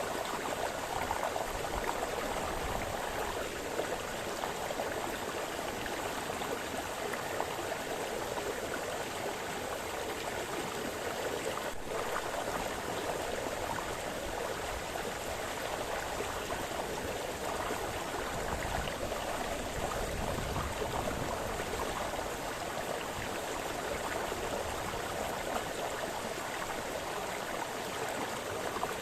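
A small brook splashing and babbling over stones, a steady continuous rush of water.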